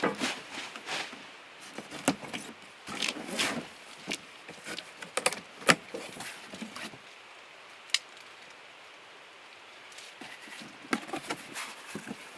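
A cardboard box and its packing being opened and handled: rustling and scraping with scattered clicks and knocks, the sharpest a little past halfway, then a quieter stretch before the handling picks up again.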